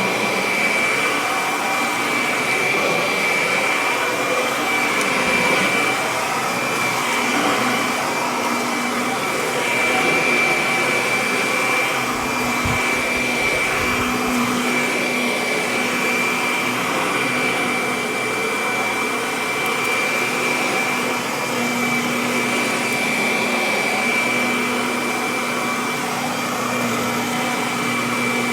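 Kirby Avalir upright vacuum cleaner running steadily while vacuuming, with a constant high whine and a lower hum that comes and goes. A few low bumps come a little under halfway through.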